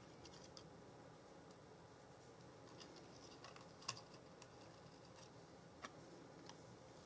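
Faint scattered clicks and light rustles of paper card being handled and pressed together, with a sharper tap about four seconds in and another near six.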